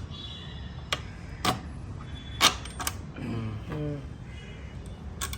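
Sharp, separate metallic clicks and knocks, about five of them spread over a few seconds, from tools and exhaust parts being handled while a motorcycle exhaust is pulled off and changed.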